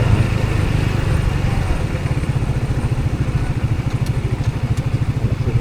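Vehicle engine idling steadily with a rapid, even low pulse.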